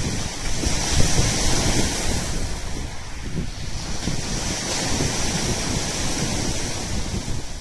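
Black Sea surf washing onto the shore in a continuous rush. The hiss of the breaking water swells about a second in and again around five seconds in, while wind buffets the microphone with an uneven low rumble.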